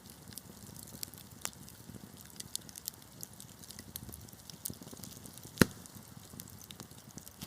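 Wood fire crackling in a fireplace: scattered small snaps and pops over the low, even sound of the flames, with one loud pop about five and a half seconds in.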